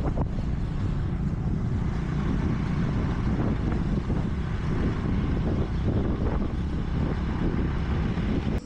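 Motorbike on the move: a steady engine and road rumble with wind buffeting the microphone, cut off suddenly near the end.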